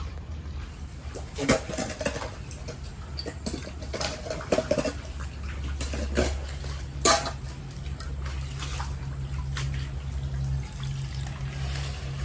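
Floodwater sloshing and splashing, with a handful of sharper splashes or knocks at irregular moments over a steady low rumble.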